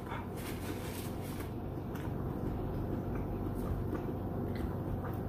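A person chewing food close to the microphone, with faint small wet clicks over a steady low room hum.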